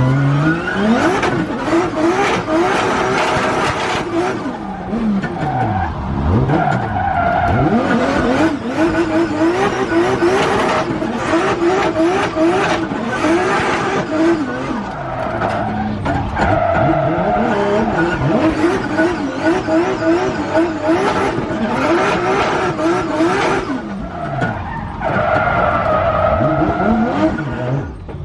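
Toyota Supra drift car's 950 hp stroker 2JZ straight-six being driven hard while drifting: the revs swing rapidly up and down, and the tyres squeal in long stretches.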